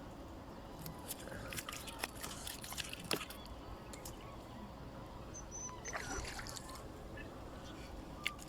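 Water dripping and splashing with scattered light knocks and clicks, and a short high bird chirp about five and a half seconds in.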